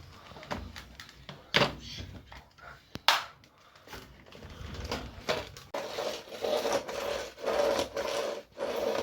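Handling noises: two sharp knocks, about a second and a half apart, among scattered clicks and scraping, then a choppy stretch of rattling from about two-thirds of the way through.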